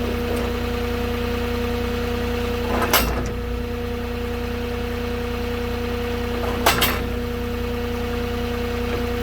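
Moffett truck-mounted forklift's diesel engine idling steadily, with two brief hissing bursts about three seconds and seven seconds in.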